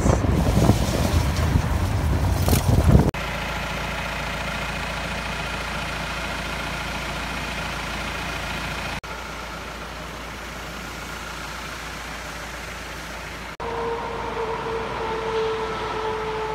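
Mahindra Roxor's four-cylinder turbo-diesel engine running as the side-by-side drives along a gravel trail, with heavy wind rumble on the microphone for the first few seconds. The sound changes abruptly about three, nine and thirteen and a half seconds in.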